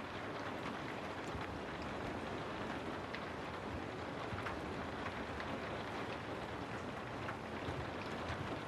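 Steady rain falling on a house, an even hiss with many individual drops tapping throughout.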